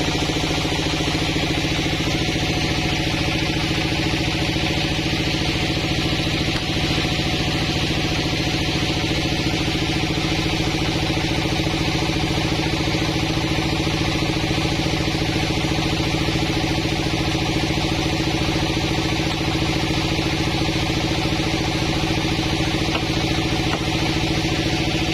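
Engine-driven sawmill running steadily, with an even engine note and a constant hiss above it and no change in load or speed.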